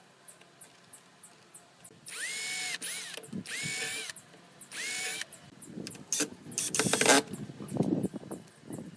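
Handheld power drill run in three short bursts, its motor pitch rising, holding and dropping each time, as when driving screws into wood. A run of sharp knocks and clicks follows.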